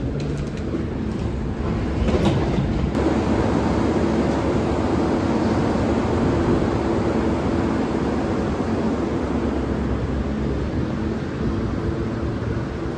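Via Rail passenger train arriving at the platform: a steady rumble with a low drone, growing louder about two seconds in, with some clicks as it swells.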